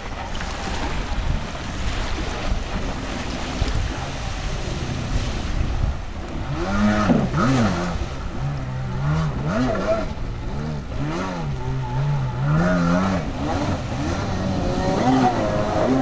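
Two-stroke twin engine of a 1993 Kawasaki 750SX stand-up jet ski running over a rush of wind and water. About six seconds in, its pitch starts rising and falling again and again as the throttle is worked.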